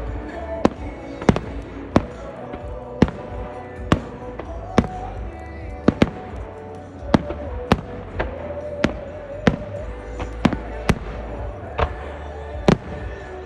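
Fireworks shells bursting in a steady run, about one or two sharp bangs a second, over music.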